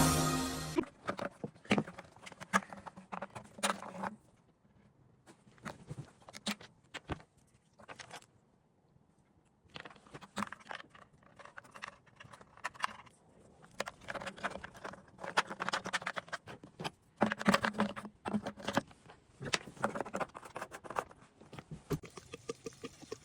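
Hands working on a Stihl FS94R string trimmer during a tune-up: irregular small clicks, taps and rustles of plastic covers and small metal parts being handled and fitted, with short pauses between. Background music cuts off in the first second.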